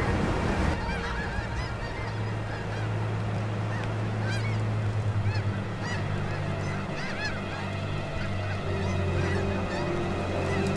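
Snow geese calling, many short high honks overlapping as a flock clamours, over a steady low hum.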